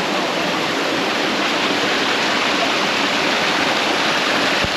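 Small waterfall rushing steadily, heard up close.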